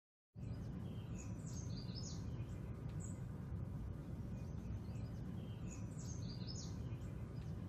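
Birds chirping in short phrases that come back every few seconds, over a steady low background rumble. It starts after a brief silence.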